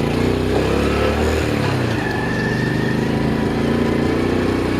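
Motorcycle engine running on the move, its pitch dipping and recovering about a second in.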